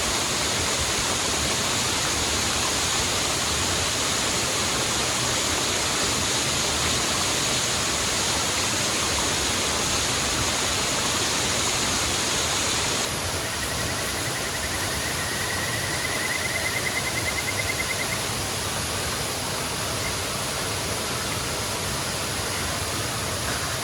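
A waterfall's steady rushing roar. About halfway through, the roar abruptly becomes a little quieter and less hissy, and a faint high pulsing trill sounds for a few seconds.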